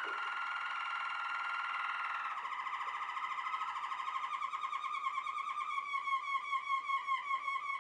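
Waterslager (Malinois) canary singing: a smooth rolling trill that breaks, about two seconds in, into a fast run of repeated notes, the notes growing more distinct and sinking a little in pitch toward the end.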